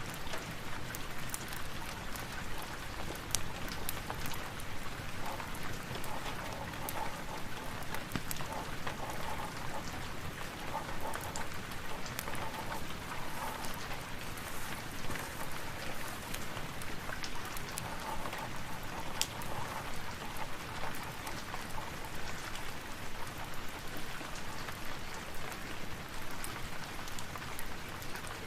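Steady rain falling, with many sharp scattered crackles, likely from a fireplace, mixed in.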